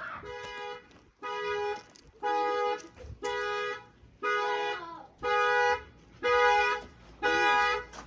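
Car alarm sounding the car's two-tone horn in a steady run of honks, about one a second, set off when the door of the locked car is tried.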